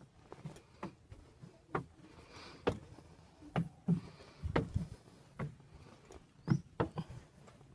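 Footsteps: irregular steps about one a second, each a short knock, some coming close together in pairs.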